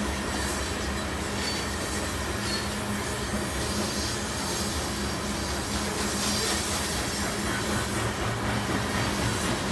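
Loaded coal train's freight cars rolling past at steady speed: a continuous rumble and clatter of steel wheels on rail. A couple of short, high wheel squeals come in the first few seconds.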